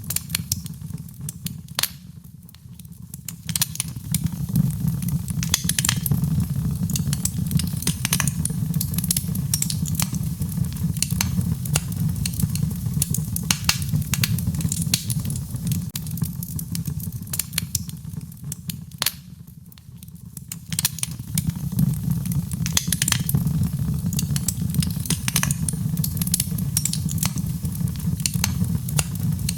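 Wood fire crackling in a fireplace: frequent sharp pops and snaps over a steady low rumble of the burning. It dips quieter twice, about two seconds in and again near the middle.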